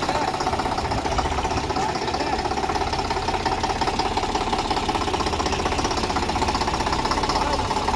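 Tractor diesel engine running steadily with a rapid, even beat of firing pulses.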